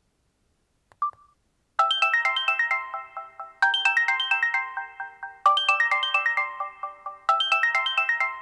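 Samsung GT-E3300 mobile phone playing one of its built-in ringtones: a short beep about a second in, then a quick, bright melody of plinking notes that starts just before two seconds in and repeats every two seconds or so.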